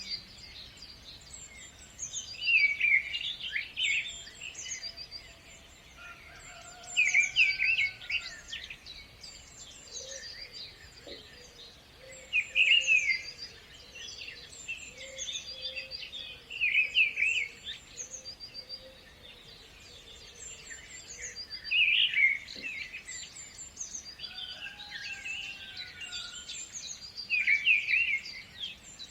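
Several songbirds singing, with a loud burst of rapid chirps about every five seconds and thinner high notes between.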